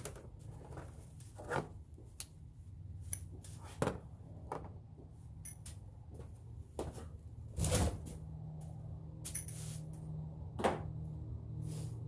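Scattered clicks and knocks of hand tools and parts being handled, with one louder knock a little before eight seconds in. After it, a steady low hum runs underneath.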